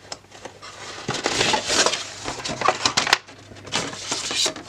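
Packaging being rummaged through and items pulled from a box: crinkling and rustling with many small clicks and knocks, in two busier stretches.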